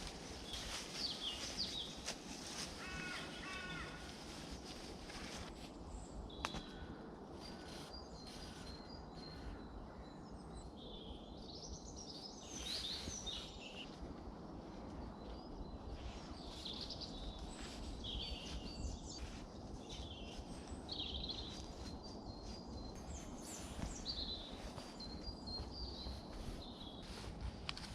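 Small woodland birds calling and twittering, short high notes scattered throughout, over steady low background noise. A single sharp click about six and a half seconds in.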